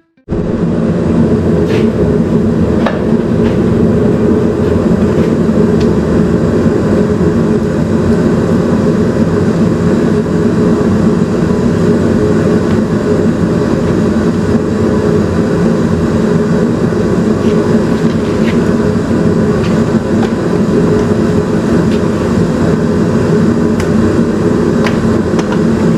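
Shop heater running with a steady, loud, unchanging noise, with a few faint clicks and taps over it.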